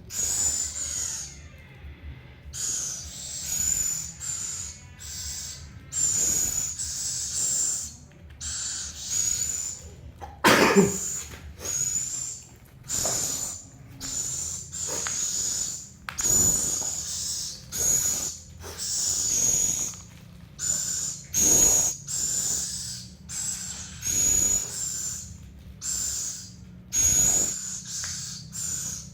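Hungry owl giving repeated hissing, wheezy begging calls, roughly one a second, with one louder, harsher call about ten seconds in.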